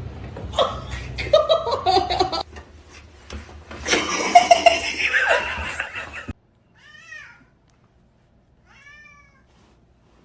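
People laughing, with a cat's voice mixed in. After a sudden cut, a cat meows softly twice, each meow rising and falling in pitch.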